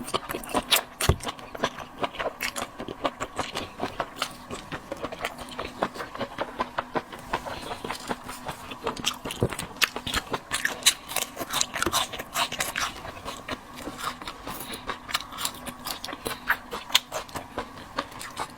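Close-miked eating of seafood: chewing, with many quick, irregular wet clicks and small crunches.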